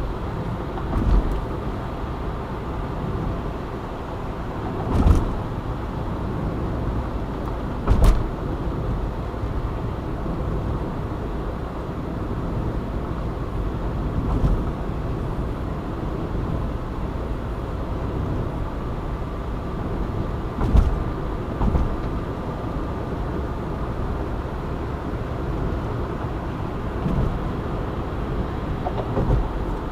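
A car driving at steady speed on an urban motorway: continuous tyre and engine rumble, with a few short, loud thumps about 1, 5, 8 and 21 seconds in.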